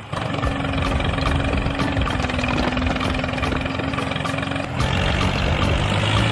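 An engine running steadily with a constant hum. About five seconds in, the sound switches abruptly to a lower, deeper engine drone.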